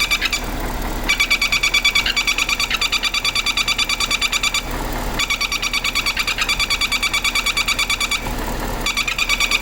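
Rapid, rhythmic, high-pitched whistling chirps from the brake vacuum pump's plug on a running BMW 550 E60's engine, cutting out briefly three times. It is a whistle, not a squeak, and it was first taken for a belt.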